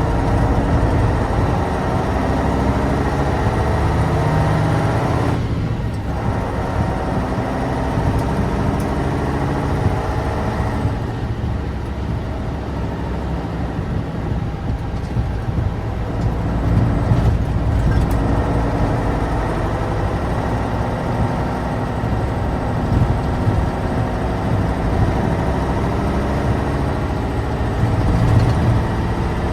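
Tatra 815 dump truck's air-cooled, naturally aspirated V10 diesel engine running as the unloaded truck drives. The engine sound dips briefly about five seconds in, and its upper part eases off from about ten seconds in.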